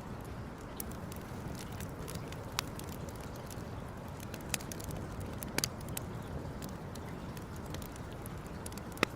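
Wood campfire crackling, with sharp pops at irregular intervals over a steady low rushing noise; the loudest pop comes near the end.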